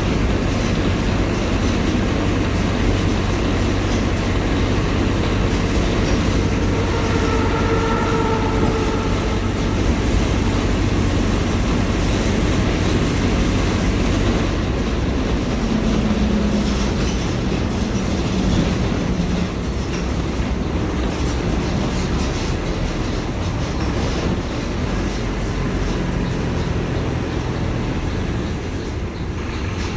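Mercedes-Benz OF-1721 diesel city bus under way, the engine running with a steady low drone under road rumble and body rattles. A brief higher whine comes about eight seconds in, and a falling tone around sixteen seconds in.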